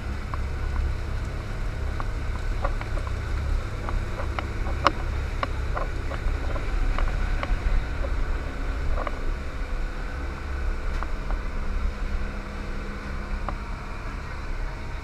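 A boat under way: a steady low rumble, with scattered light clicks and knocks, most of them in the first half.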